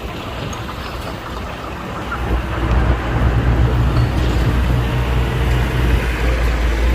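Heavy diesel engine of construction machinery running, its low rumble swelling up and getting markedly louder about two seconds in, as under load or revving, then holding steady.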